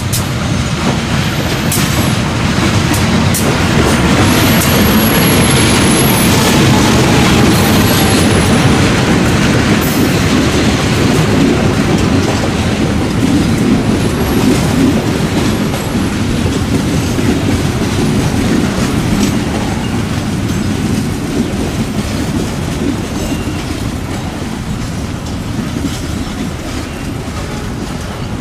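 A train passing close by, its wheels clicking over rail joints and points. A high thin wheel squeal sounds several times in the first third. The rumble is loudest a few seconds in and slowly dies away.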